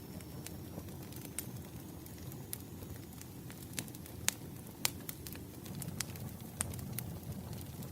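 Wood fire crackling: irregular sharp pops and snaps, the loudest a little after four seconds and near five, over a steady low rumble.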